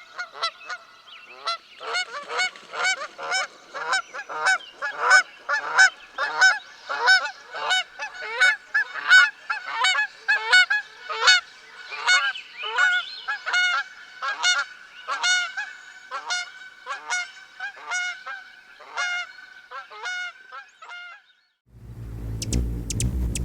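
A flock of animals calling: many short, pitched calls overlapping, several a second, stopping about 21 seconds in. Near the end a different low rumbling sound with sharp clicks begins.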